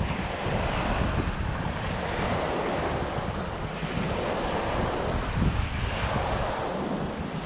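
Waves washing in on a shore, swelling and easing every couple of seconds, with wind buffeting the microphone.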